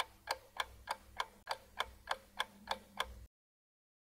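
Clock-ticking sound effect marking a countdown timer, about three ticks a second, which stops a little over three seconds in as the timer runs out.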